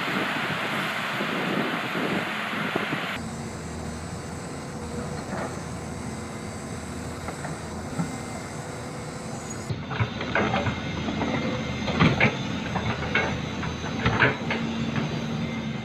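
Heavy machinery running steadily. The sound changes abruptly twice. From about ten seconds in, sharp metallic clanks and knocks sound over the engine.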